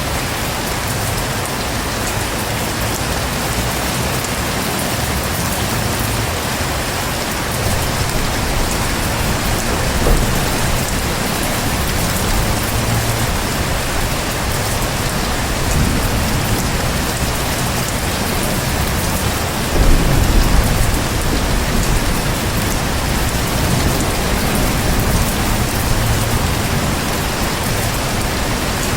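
Heavy rain falling steadily, with low rumbles of thunder: a short one about a third of the way in and a louder one about two-thirds in.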